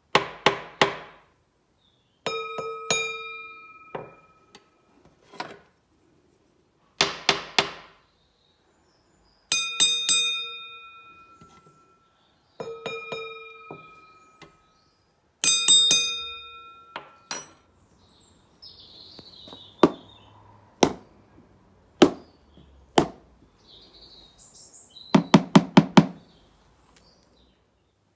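A beater tapping on different objects and surfaces: short groups of quick taps, several of them on something metal that rings on with a clear pitched tone after each strike, the others dull knocks with no ring.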